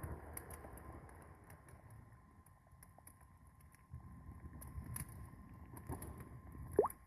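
Low rumbling background noise with scattered faint clicks, broken near the end by one short rising chirp.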